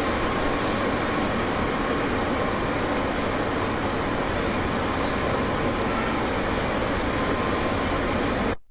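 Steady rushing noise, like a running machine or fan, that cuts off abruptly near the end.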